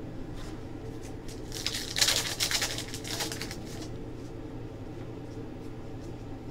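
Trading cards and their pack wrappers being handled: a burst of rapid rustling and flicking starts about a second and a half in and lasts about two seconds, over a steady hum.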